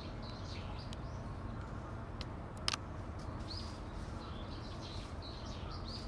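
Small birds chirping repeatedly in quick, short high notes over a steady low background rumble, with one sharp click about two and a half seconds in.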